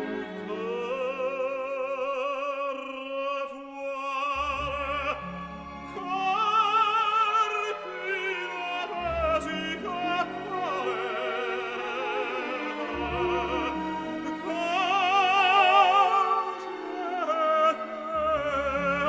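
Operatic solo singing with wide vibrato on long held notes, over an orchestral accompaniment.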